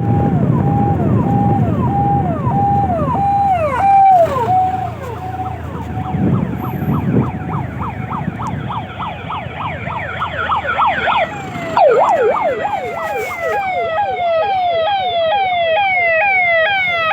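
Electronic vehicle siren sounding continuously, switching between warble patterns: a held tone that drops off, then quick up-and-down sweeps, then a fast repeating falling tone. A low rumble runs underneath and cuts off suddenly about twelve seconds in.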